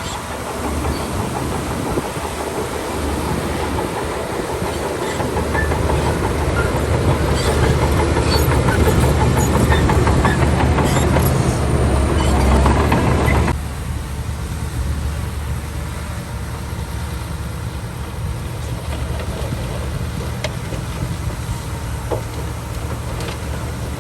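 Shantui DH17 C2 crawler bulldozer working: its diesel engine runs under load with the clanking clatter of its steel tracks. The sound builds through the middle and then drops sharply about halfway through, continuing at a lower level.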